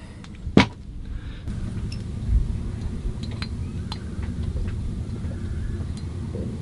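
Light scattered clicks and ticks of furler parts and tools being handled, with one sharper click about half a second in, over a steady low rumble.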